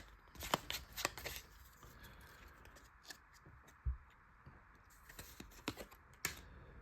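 Pokémon trading cards being handled and sorted through by hand: faint, scattered soft clicks and rustles of card stock, in two bunches, near the start and near the end.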